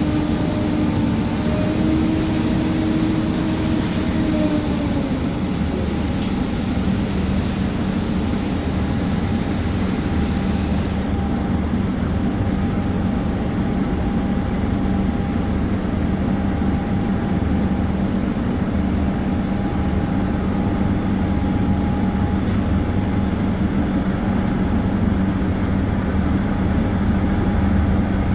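Heavy diesel road-construction machinery running steadily. An engine tone drops about five seconds in, then the machinery carries on at a steady pitch.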